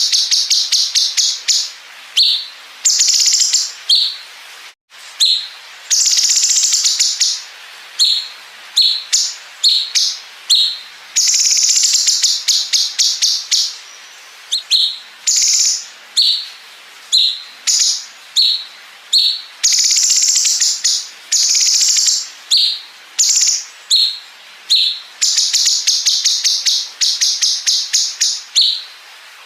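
Cucak cungkok songbird singing loud, high bursts of rapid-fire trills (the 'bren' fill, like a machine gun) alternating with short sharp phrases. There is a brief dropout about five seconds in.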